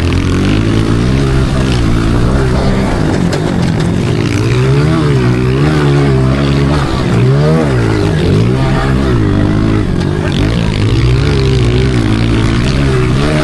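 Pit bike engine being ridden hard, its pitch rising and falling again and again as the throttle is opened and closed through corners.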